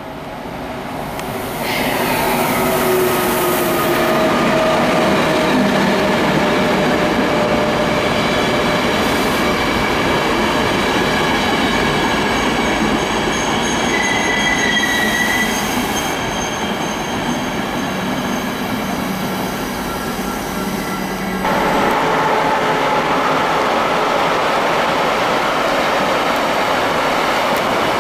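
ÖBB electric trains passing through a station at speed: a continuous rumble of wheels on rail with several steady whining tones. The sound builds over the first couple of seconds and about three-quarters of the way through switches abruptly to a rougher, noisier rumble as a freight train of container wagons goes by.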